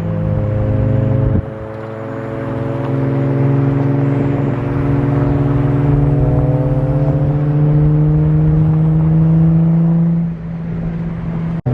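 A car engine under steady acceleration. The pitch climbs slowly and evenly over about eight seconds, then drops as the throttle eases off near the end.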